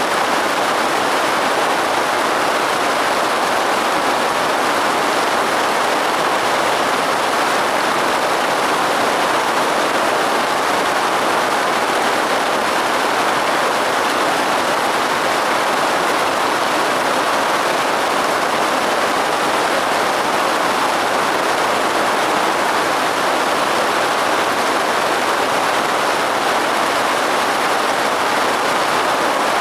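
Steady rain falling: an even, unbroken rush of noise at a constant level.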